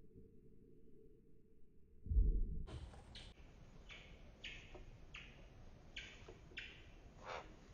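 A low thump about two seconds in as a California scrub-jay lands on a wooden railing, followed by light, irregular clicks and taps, roughly one or two a second.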